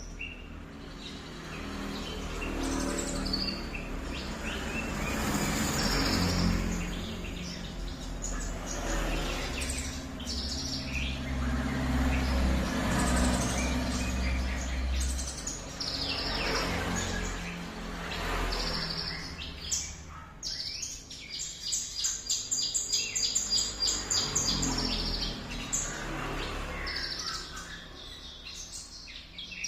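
A konin songbird singing a varied run of chirps and whistled phrases in the style of a cililin, including a fast, even trill a little past the middle, over a steady low hum.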